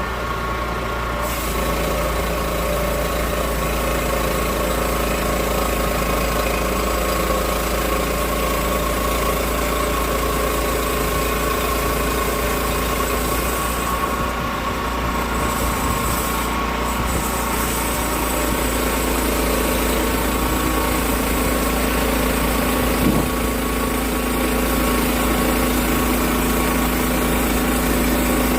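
An engine running steadily at a constant speed, with no clear change in pitch.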